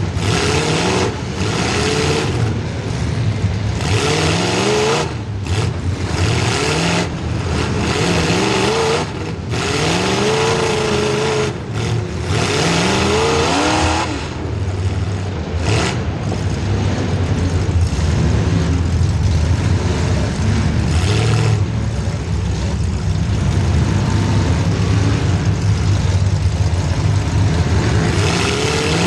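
Demolition derby car's small-block Chevy V8 revving up and down again and again, with many short, loud noisy bursts over the first half. After about sixteen seconds the engine settles into a steadier drone.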